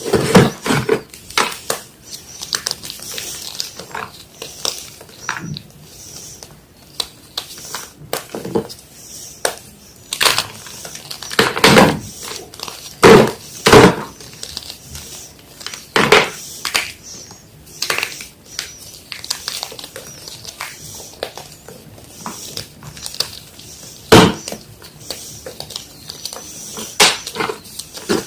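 Yellow gym chalk being crushed: irregular crunches, some loud and sharp, others small crumbly crackles in between.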